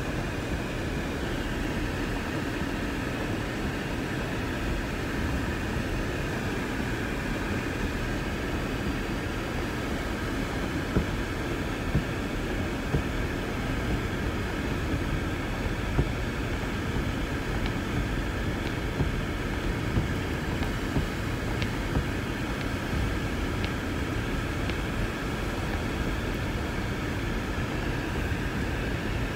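Strong blizzard wind blowing steadily, with faint whistling over the top and several short knocks partway through.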